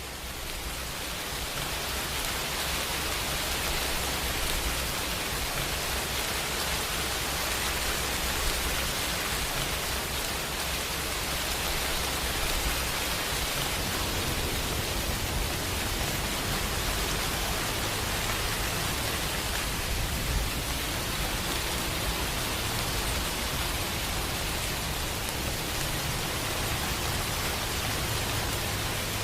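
Steady rain, an even hiss of falling drops with a low rumble underneath, fading up over the first couple of seconds and then holding level.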